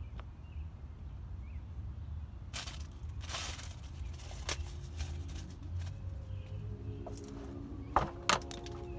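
Hand work on a car's exhaust from underneath while the front joint is bolted up: scattered clicks and knocks of metal parts and tools, a brief scrape about three seconds in, and two sharp knocks near the end.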